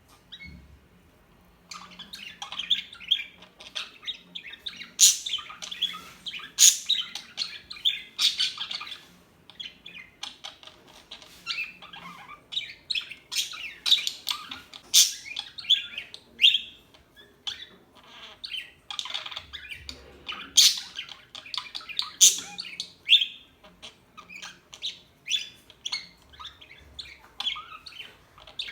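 Pet budgerigars chirping and chattering: many short, high calls in quick, overlapping runs, starting after a brief lull of about a second and a half.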